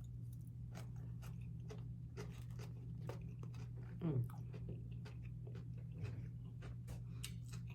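Close-up chewing of fried fish, with small crunches and many irregular mouth clicks.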